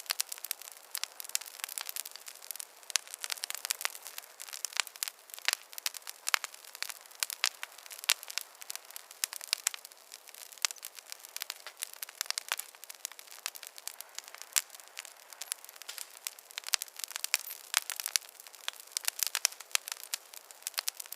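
Wood fire crackling: a dense, irregular run of sharp pops and snaps over a faint hiss.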